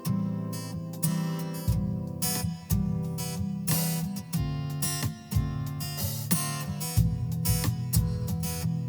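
Instrumental song intro: acoustic guitar strumming over a steady low beat.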